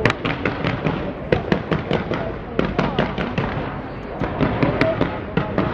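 Aerial fireworks going off in quick succession: a dense string of sharp bangs and crackles, several a second, over a continuous rumble.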